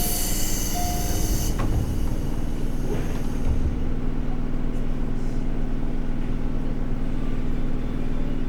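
Interior sound of a JR 211 series electric multiple unit: a steady low rumble and hum from the train. A loud burst of hissing in the first second and a half cuts off suddenly.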